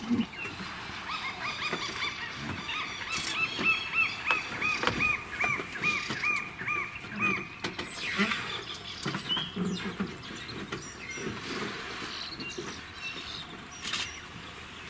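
A bird calls a fast run of repeated, arched notes, about three a second, for roughly six seconds before stopping. Scattered low sounds and a few knocks follow in the second half.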